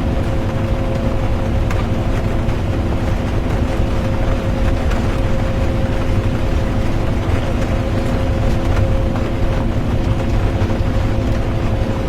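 Inside a moving bus: the engine runs steadily with a constant drone under road noise, with rain on the bus mixed in.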